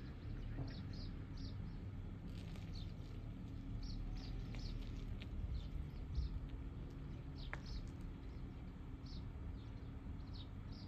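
Small birds chirping, many short high chirps scattered irregularly, over a steady low background rumble.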